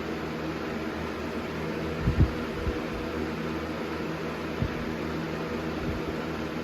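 Air King 9723 box fan running steadily: rushing air with a low hum. A couple of low bumps come about two seconds in, and another past four seconds.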